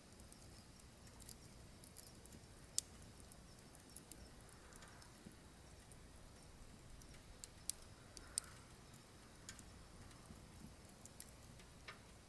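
Firewood burning in a wood stove, crackling softly with irregular sharp pops over a faint low hiss of the flames.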